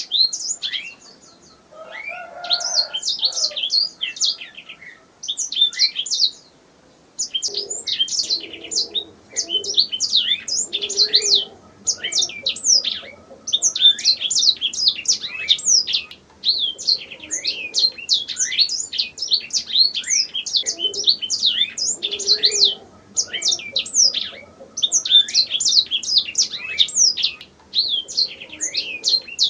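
Domestic canary singing: long phrases of rapid, high chirps and trills, broken by short pauses of a second or two.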